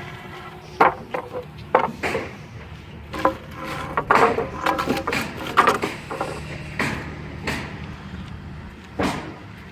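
Pieces of scrap lumber knocking and clattering as they are handled, with irregular sharp knocks over a steady low hum.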